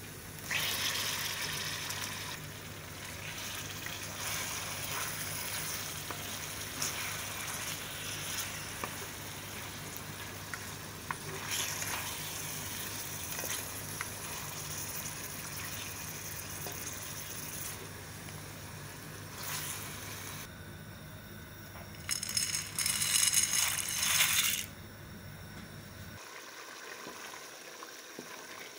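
Onions and chicken frying in oil in a steel pot: a steady sizzle with short clicks and scrapes of a spatula stirring, over a steady low hum that stops near the end. A louder rush of sizzle lasts about two seconds near the end.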